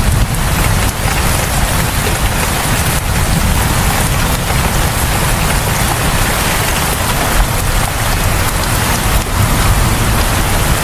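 Steady, heavy rain falling and pattering on surfaces, with a low rumble underneath.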